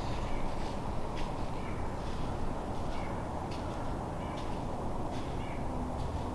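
Crows cawing repeatedly, short calls spaced a second or so apart, over a steady low rushing background.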